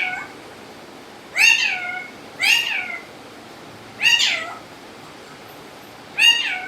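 Four meow-like calls, each rising then falling in pitch and lasting about half a second, spaced one to two seconds apart.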